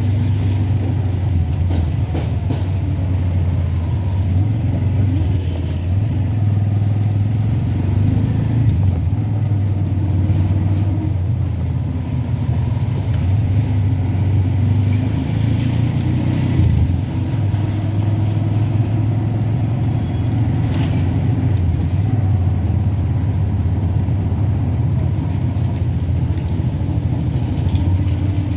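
Vehicle driving in heavy rain: a steady low rumble of engine and road noise, with a faint hiss and a few brief clicks over it.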